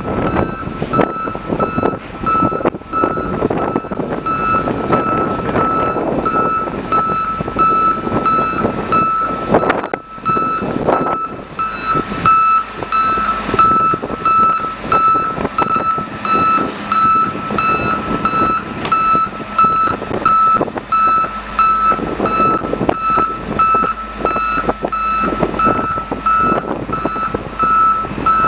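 Backup alarm on working machinery, beeping steadily in a high repeated tone, over the running machine and clattering noise.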